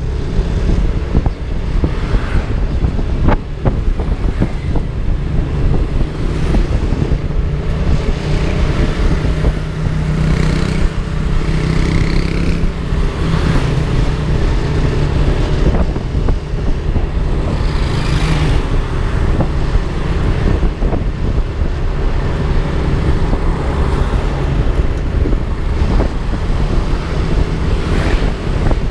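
Wind rushing over the microphone of a moving scooter, with the Yamaha Aerox 155's single-cylinder engine running beneath it. The engine note rises and falls with the throttle.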